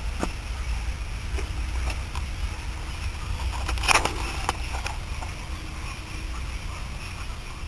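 Steady low outdoor rumble with a few scattered clicks and rustles, the loudest cluster about four seconds in.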